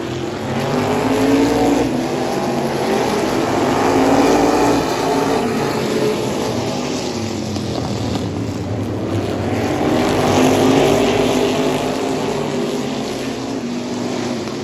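Race car engines running hard. The engine pitch rises and falls, and the loudness swells a few times as the cars come by or the engine is driven through the laps.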